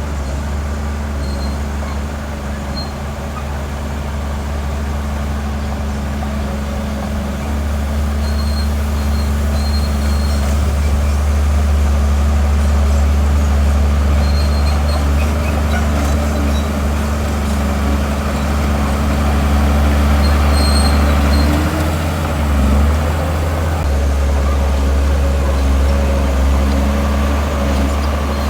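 Heavy diesel engine of earthmoving machinery running steadily under load, a low drone that grows louder about a quarter of the way in and shifts briefly about three quarters of the way through.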